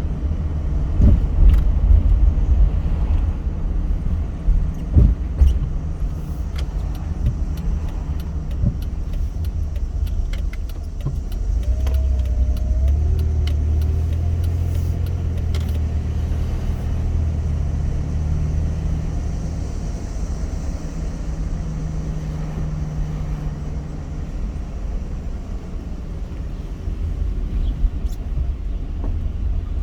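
A car driving, with a continuous low rumble of road and engine noise. Small clicks and knocks come through in the first half, and a deeper, steadier engine note swells partway through before easing off.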